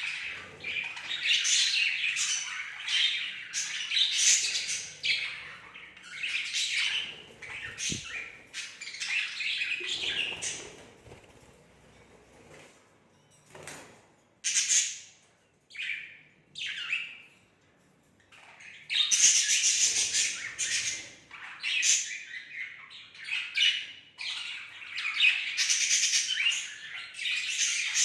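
Budgerigars chattering, chirping and squawking in quick runs of calls, thinning to a few scattered chirps about halfway through before the chatter picks up again.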